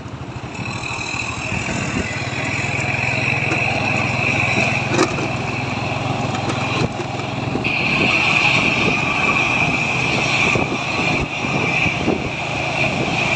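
Truck engine running steadily, with a constant high-pitched whine over the low hum that gets louder about halfway through.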